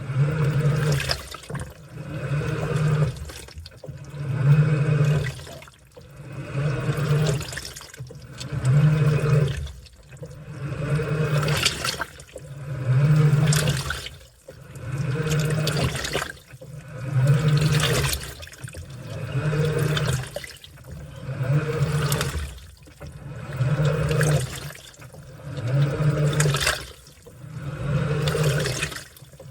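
Washing machine in its wash cycle, the motor driving the drum in regular strokes about every two seconds, each stroke bringing a low motor hum and water sloshing through the laundry.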